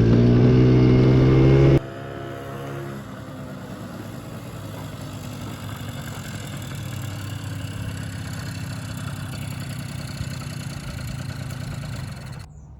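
The 50cc two-stroke engine of a 1982 Honda Melody scooter running. It is loud and buzzing at first, then drops abruptly about two seconds in to a quieter, steadier running note that carries on until it cuts off near the end.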